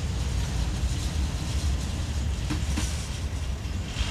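Freight cars rolling past: a steady low rumble of steel wheels on rail, with two short clacks about two and a half seconds in.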